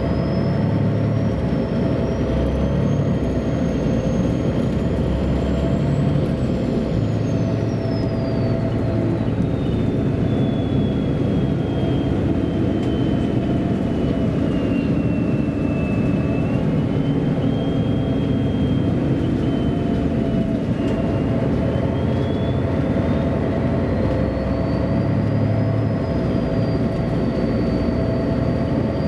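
MAN A23 articulated city bus heard from inside while driving: a steady diesel rumble with a thin high whine that climbs over the first few seconds, falls away through the middle, then climbs again near the end as the bus changes speed.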